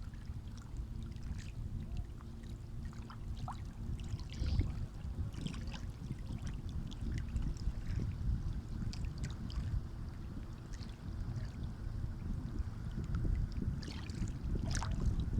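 Sea waves washing on a shore: a steady low rumble of surf with scattered small splashes and trickles. A faint steady hum runs under it through the first half.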